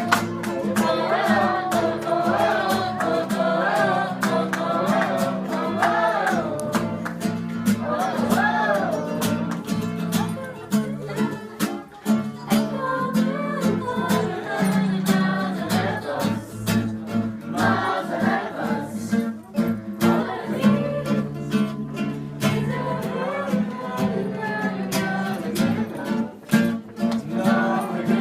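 Group singing along to a strummed acoustic guitar.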